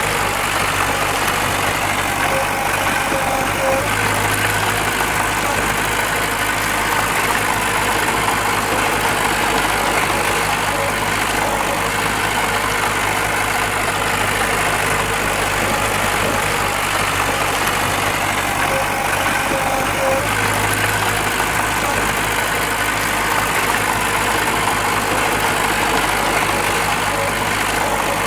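Diesel engine of heavy earthmoving machinery running steadily, its low hum swelling briefly about four seconds in and again about twenty seconds in.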